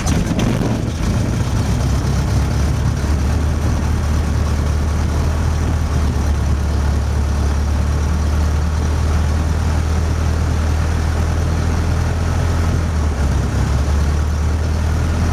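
Cessna 152's Lycoming O-235 four-cylinder air-cooled engine running just after start. It settles into a steady low idle drone within the first few seconds.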